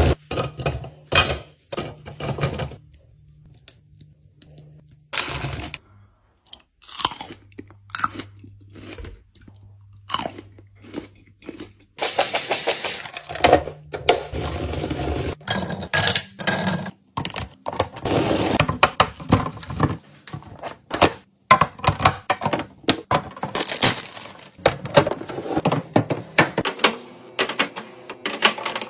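Hard plastic containers, lids and packaging clicking, knocking and crinkling as a fridge is restocked and organised. It starts with scattered clicks and turns into a busier run of clatter about twelve seconds in.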